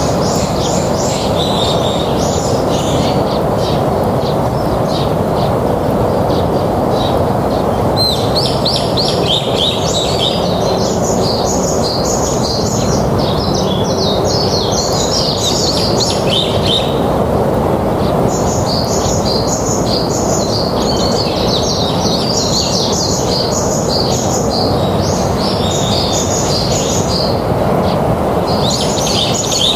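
Small birds chirping in quick, high-pitched bouts that pause and resume every several seconds, over a steady background hiss.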